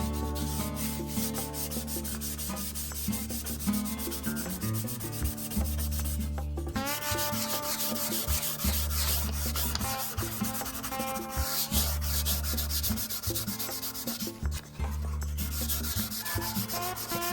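Sandpaper sanding the wood veneer of an antique cedar chest: a steady rasping hiss that breaks off briefly twice.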